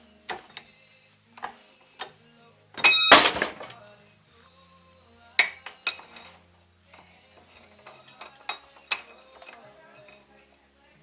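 Steel parts and tools clinking and knocking on a work surface, with one loud ringing metal clang about three seconds in.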